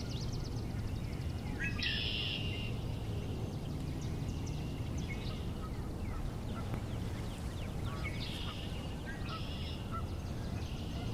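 Red-winged blackbirds singing their conk-la-ree songs: short opening notes, then a buzzy trill, repeated several times. The loudest song comes about two seconds in, and two more follow close together near the end. Scattered short calls sit between them, over a steady low rumble of background noise.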